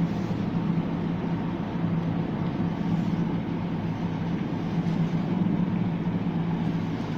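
Steady mechanical hum with a constant low tone over a rumbling noise, from a Ferris wheel turning, heard from inside a gondola on the way down.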